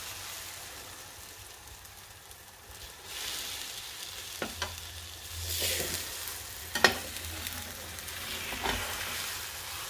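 Omelette sizzling in a frying pan, the hiss growing louder about three seconds in, while a metal slotted spatula scrapes and knocks against the pan a few times, the sharpest knock about seven seconds in.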